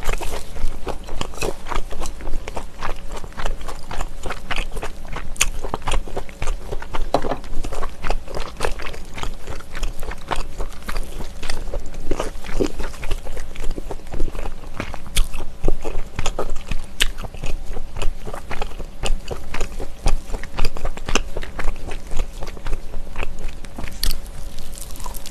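Close-miked biting and chewing of smoked pork belly topped with a green chili pepper, a dense run of wet mouth clicks that goes on without a break.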